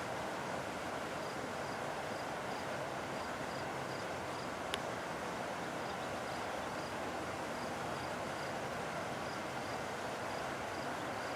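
Outdoor background: a steady rushing noise with a faint high chirp repeating evenly about three times a second, and a single sharp click about halfway through.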